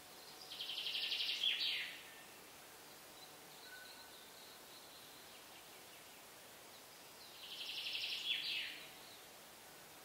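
A songbird sings the same short, fast trilled phrase twice, about six seconds apart. Each phrase lasts about a second and a half, swells, and ends in a quick falling flourish. A faint thin call comes in between.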